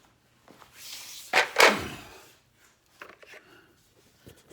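A short clatter of hand tools being handled, with two sharp knocks close together about a second and a half in, likely a 14 mm socket or wrench being picked out for the strut bolts; a few light clicks follow.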